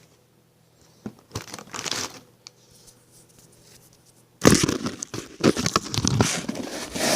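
Crinkling and rustling of something being handled: a few short rustles, then louder, continuous crinkling from about four seconds in.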